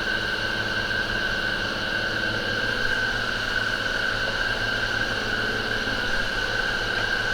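A steady high-pitched whine with a low hum underneath, holding the same pitch throughout.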